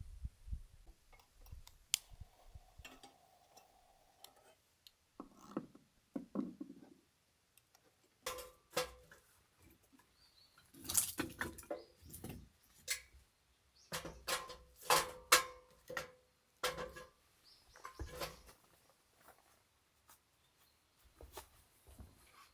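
Irregular clinks, knocks and rattles of small objects being handled, in scattered bursts with quiet gaps between, busiest in the middle.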